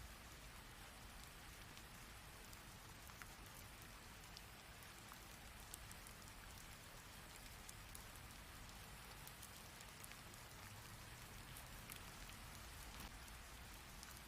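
Rain falling in a steady, soft hiss, with scattered sharp ticks of individual drops striking nearby.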